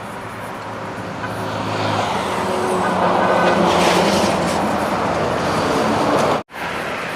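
A motor vehicle passing close by on the highway: engine and tyre noise swell over a couple of seconds and stay loud. The sound cuts out for an instant near the end.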